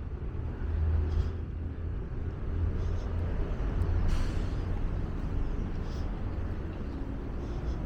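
Steady low outdoor rumble, with a few brief faint clicks.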